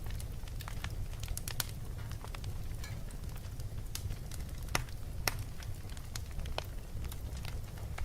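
Fireplace crackling: scattered sharp snaps and pops, a few louder than the rest, over a steady low rumble.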